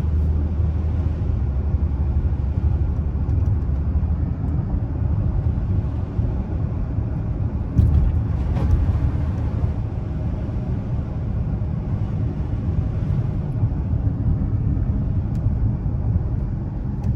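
Dodge Charger V6 cruising, a steady low engine and road rumble, with a short bump about eight seconds in.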